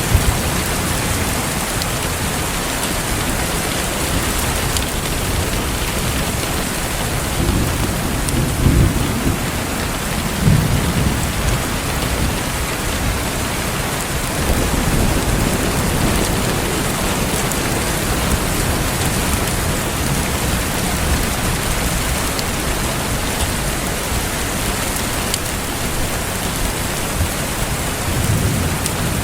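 Steady rain falling, with low rumbles of thunder about a quarter to a third of the way in and again near the end.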